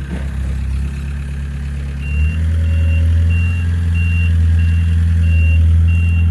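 Engine running steadily at idle with a deep, even hum, checked while running. About two seconds in, a high electronic beep starts repeating about one and a half times a second.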